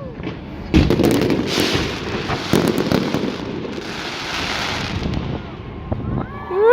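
Fireworks going off: a few sharp bangs about a second in and again around three seconds in, with crackling in between as the shells burst.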